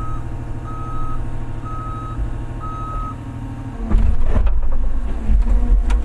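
Large excavator's diesel engine running while its travel alarm beeps about once a second; the beeping stops about three seconds in, and the engine then works harder with heavy thumps and knocks.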